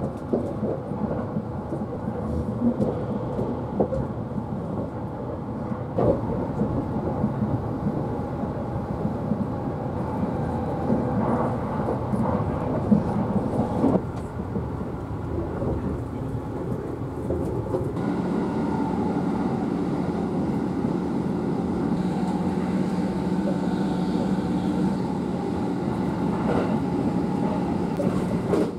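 Running noise of the Odoriko limited express train heard from inside the passenger car: a steady rumble of wheels on rail with occasional clicks. About two-thirds of the way through, a steady low hum joins it.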